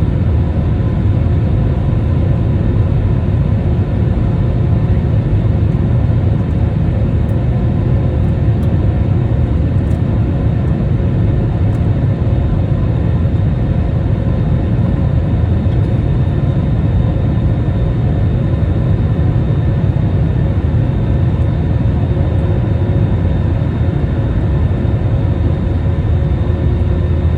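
Jet airliner engines and airflow heard as steady passenger-cabin noise: a loud, unchanging low rumble with a few faint steady whining tones above it.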